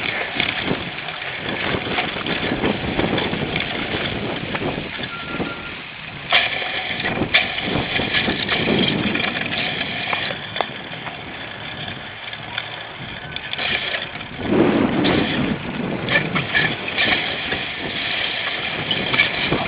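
Cyclocross bike ridden hard over rough ground: a steady rumble of tyres and rushing air, broken by rattling knocks from the bike as it jolts over bumps.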